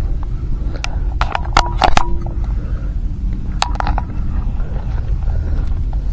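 Wind rumbling on the microphone, with a few sharp clicks and knocks, clustered about one to two seconds in and again near four seconds.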